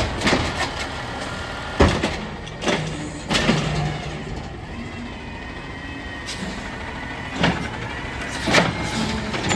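Amrep garbage truck at work: the engine runs steadily under about five sharp clanks and bangs spread across the stretch, with a faint high whine midway.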